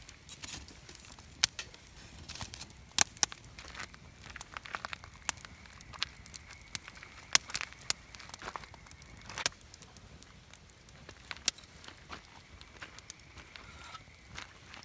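Wood campfire crackling, with irregular sharp pops, a few of them loud.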